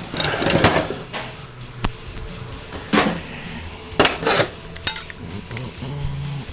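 Heavy steel internals of a Ford 5R110W automatic transmission clanking and rattling as they are handled and pulled out by hand: a handful of separate metallic clanks, with clusters near the start, about three seconds in and about four seconds in.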